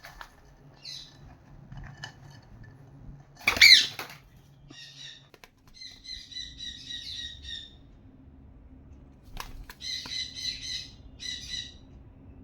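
A baby parrot calling: one loud squawk about four seconds in, then several bursts of rapid, chattering repeated calls.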